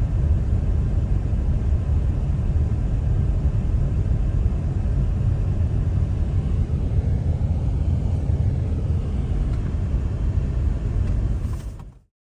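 Steady low outdoor rumble with no distinct events, fading out and cutting off just before the end.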